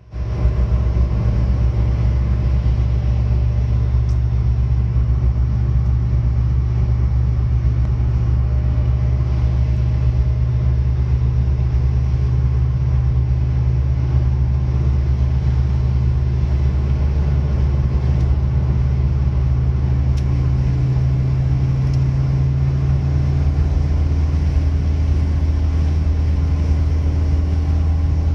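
1985 Tofaş Doğan driving at motorway speed: a steady, loud low drone of its engine and road noise, with a faint higher tone coming in about two-thirds of the way through.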